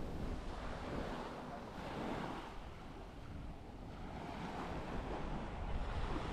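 Small sea waves breaking and washing up a sandy beach, swelling and ebbing twice, about a second in and again near the end, with wind rumbling on the microphone.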